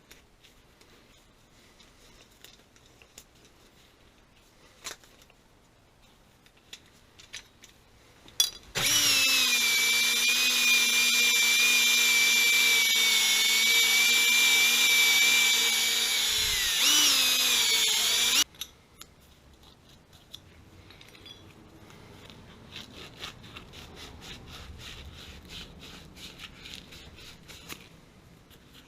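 Electric hand power tool, drill-like, running at a steady pitch for about ten seconds. Its pitch sags briefly under load near the end, then it stops abruptly. Faint handling clicks come before it.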